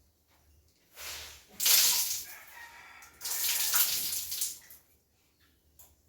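Water splashing and pouring in a bathroom during hand laundry, in two main gushes about a second apart, each lasting a second or so.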